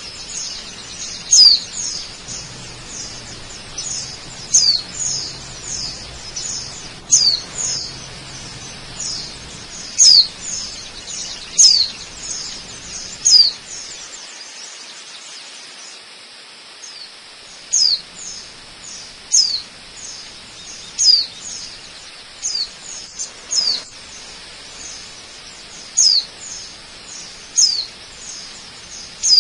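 A bird repeating a short, high call that sweeps downward in pitch, about once every one to two seconds and sometimes in quick pairs, over a faint steady rush of a waterfall.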